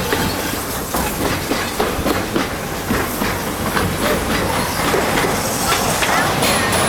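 Narrow-gauge passenger train rolling along the track, heard from aboard: a steady rumble with irregular clicks and clacks of the wheels and the rattling cars.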